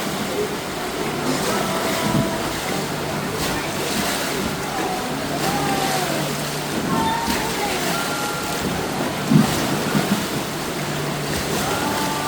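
Sea waves washing onto a beach: a steady rush of surf, with a couple of louder splashes near the end.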